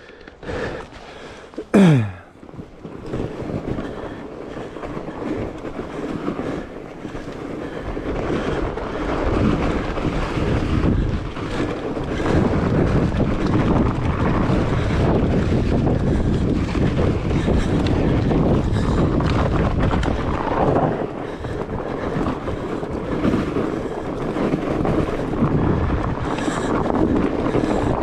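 Wind rushing over the microphone of a camera riding along on a fat bike, building and staying loud from about eight seconds in. A short falling squeal comes near the start.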